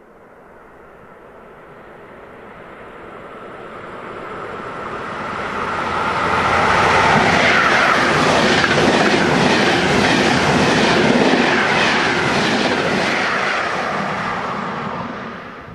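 Frecciabianca express train hauled by an E 414 electric locomotive running through a station. It grows louder over about seven seconds as it approaches, then the coaches pass close by with a steady rhythmic clatter of wheels over the rails, and the sound cuts off abruptly at the end.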